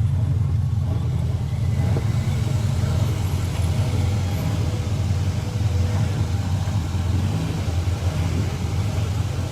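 Chevrolet Chevelle Malibu's 350 small-block V8 running at low speed with a steady, low exhaust rumble, really nice sounding.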